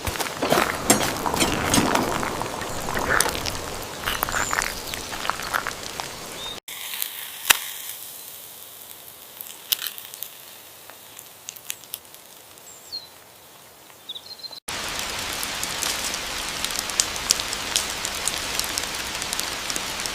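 Outdoor nature ambience in three abruptly cut sections: scattered clicks and short high bird-like chirps, a quieter middle stretch, then a steady crackling patter of many small ticks over a noise haze for the last five seconds or so.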